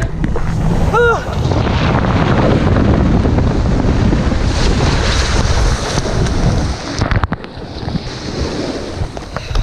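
Wind and rushing water blasting over a small action camera's microphone during a fast ride down a steep water speed slide, with a short yell about a second in. The rush falls off sharply about seven seconds in, then goes on more quietly.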